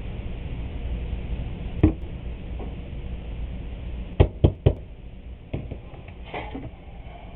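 Sharp knocks of hard objects being handled or set down: one about two seconds in, three in quick succession a little past four seconds, and one more shortly after, over a low steady hum.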